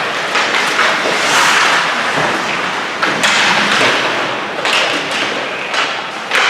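Ice hockey play: sharp knocks and thuds of puck and sticks against the boards over steady rink noise, with a loud knock about three seconds in and another near the end.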